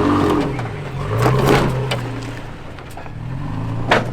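Off-road vehicle engine revving up and easing off as it climbs a rocky hill obstacle, with tyres crunching and knocking over rock and a sharp knock near the end.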